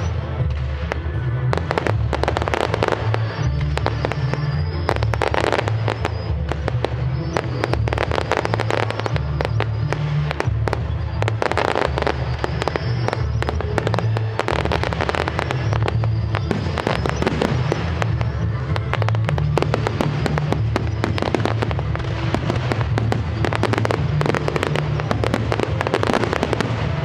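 Fireworks going off in a dense, unbroken barrage of bangs and crackles, with music playing underneath.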